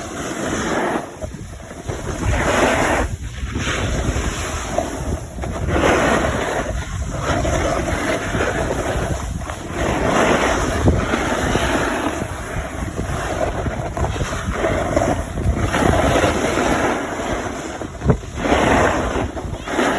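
Wind buffeting the microphone in surges every few seconds, over a steady rushing noise of moving downhill.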